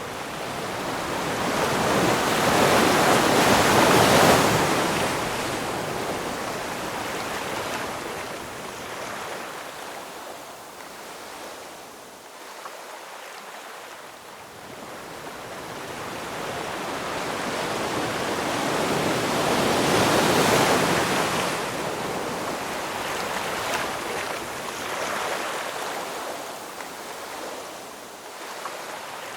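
Ocean waves breaking and washing ashore, the surf swelling to two loud peaks, about four seconds in and again about twenty seconds in, with quieter wash in between.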